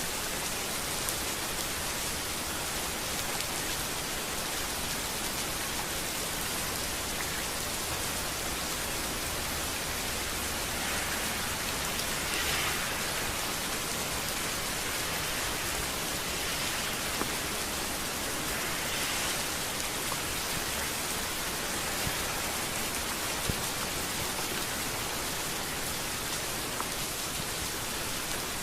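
Steady rain falling on a street, an even hiss with scattered drop ticks and a few soft swells in intensity.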